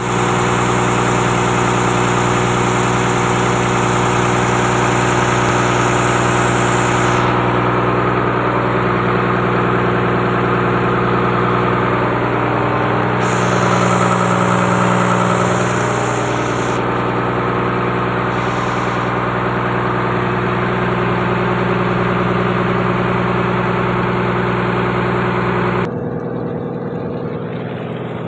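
Engine of a fishing boat's freezer machine running steadily on a test run, with an even, unchanging hum. Near the end the sound drops a little in level and turns duller.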